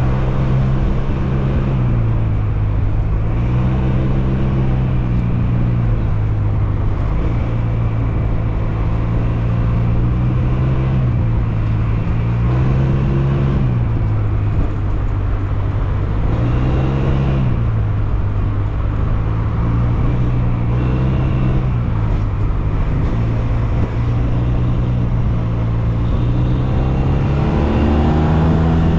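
SYM Maxsym TL 508 maxi-scooter's parallel-twin engine running while riding, its note rising and falling with the throttle several times and climbing near the end, over steady wind and road noise.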